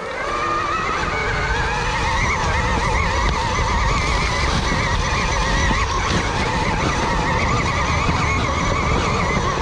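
KTM Freeride E-XC electric dirt bike riding a woods trail under throttle: its electric drivetrain whines, the pitch wavering up and down with the throttle, over a steady low rumble.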